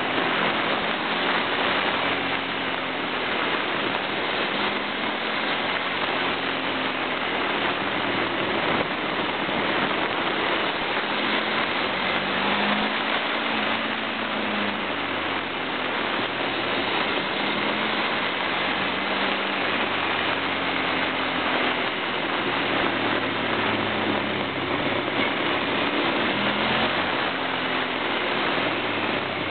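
Motorbike engine heard from a camera taped to the bike's indicator, its revs rising and falling slowly through the corners, under a steady rush of wind over the microphone that covers most of the sound.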